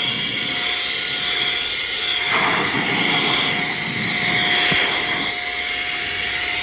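Cordless electric air duster running, its high-speed motor whining under a steady rush of air as it blows out dust. It swells louder about two and a half seconds in and again around five seconds.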